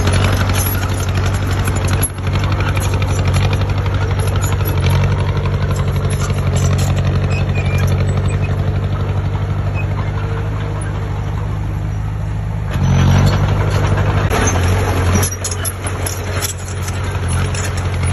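Heavy diesel engine of a construction machine running steadily. It gets louder for a second or two about thirteen seconds in, then runs more unevenly.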